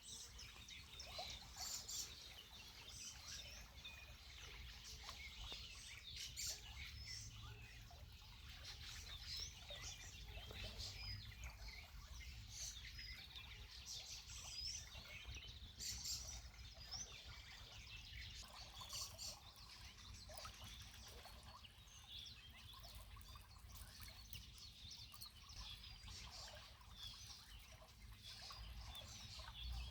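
Birds singing and chirping, several at once, a dense chorus of short high calls and trills that keeps going throughout, over a faint low rumble.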